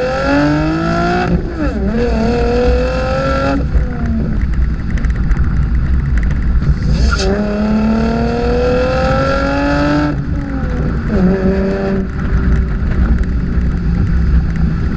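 2015 Chevrolet Camaro 1LT's 3.6-litre V6 through its factory dual-mode performance exhaust, accelerating hard through the gears of the manual gearbox. The engine note rises in pitch in each gear and drops sharply at each upshift, over two separate pulls, then settles to a steadier note near the end.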